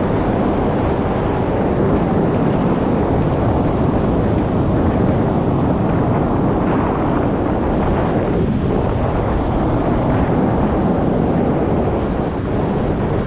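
Strong wind buffeting the microphone in a steady low rumble, over choppy surf.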